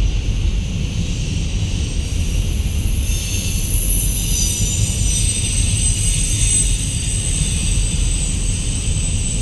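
Freight train cars, autoracks and boxcars, rolling past with a steady low rumble, and thin high-pitched tones drifting over it.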